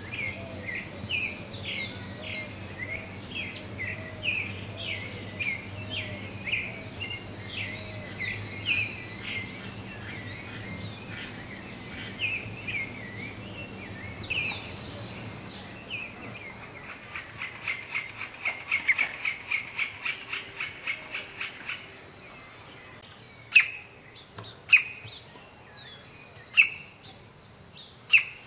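Wild birds calling: many short chirps and gliding whistled notes, then a fast run of evenly repeated notes about two-thirds of the way in, and a few loud single sharp calls near the end. A faint low hum sits under the first half.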